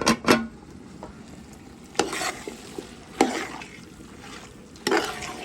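Cooking utensil scraping and knocking against a pan in a handful of separate sharp strokes, two at once at the start and then one every second or so, over a faint steady background.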